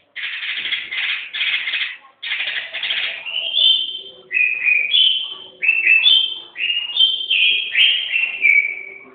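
Songbird singing: a quick run of harsh, rasping notes, then clear whistled notes that slide downward, repeated in short phrases.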